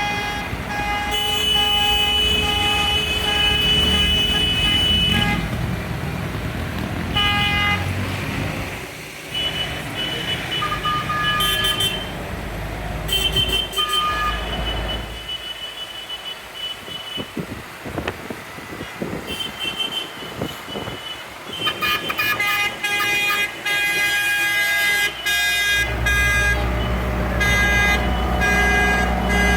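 Tractors in a procession, their horns tooting again and again, short and long blasts, over the rumble of passing engines. The engines thin out in the middle, then a loud engine rumble comes in near the end.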